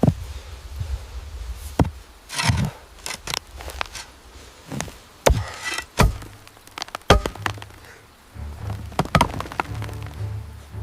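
Wood being struck by hand tools: irregular, sharp chopping and knocking blows, about a dozen with uneven pauses between them, over a low rumble.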